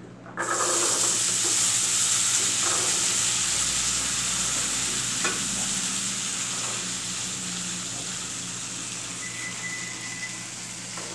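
Seasoned garbanzo beans tipped into a hot frying pan, sizzling suddenly about half a second in and slowly fading. There are a couple of light knocks as a spoon scrapes the beans out of a plastic tub.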